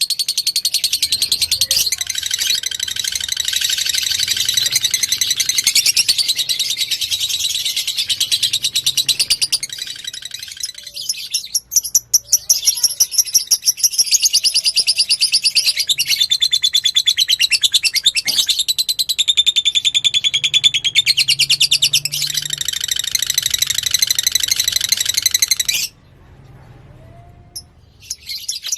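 Lovebird singing a long, rapid, unbroken chatter of high repeated notes. The song thins out briefly about ten seconds in, stops suddenly a couple of seconds before the end, then starts up again.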